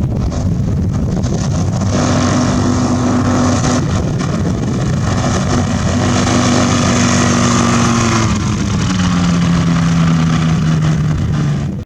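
Rotax 503 two-stroke engine of a Fox V2 ultralight running steadily, its pitch dropping to a lower, steady note about three-quarters of the way through.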